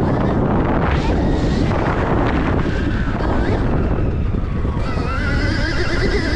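Heavy wind buffeting on the microphone while riding a Stark Varg electric dirt bike. From about five seconds in, the electric motor's whine comes through, wavering up and down in pitch.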